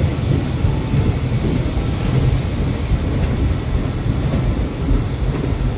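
Passenger coaches of a train rolling past on the rails: a steady low rumble of wheels and running gear.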